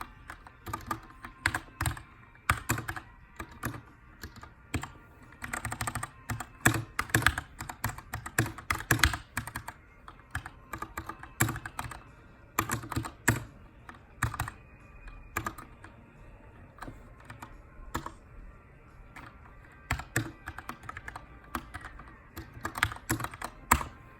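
Typing on a Keychron K2 mechanical keyboard with aluminium frame and Brown switches. Keystrokes come in quick bursts with short pauses between them, typical of text editing.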